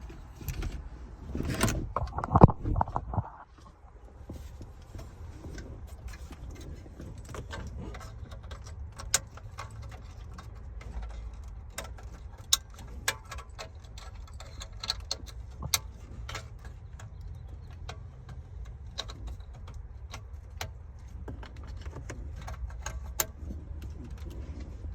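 Irregular small clicks and rattles of hard parts being handled at a car dashboard during radio installation, with a few louder knocks in the first three seconds, over a steady low hum.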